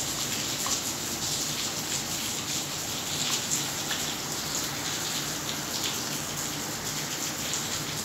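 Rain falling steadily into standing water on a flooded paved yard: an even hiss of countless small splashes.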